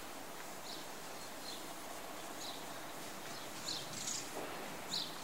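Short, high bird chirps about six times, the loudest near the end, over a steady faint outdoor background hiss.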